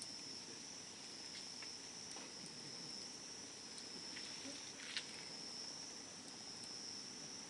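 Campfire burning with faint scattered crackles and one sharper pop about five seconds in, over a steady high-pitched insect trill.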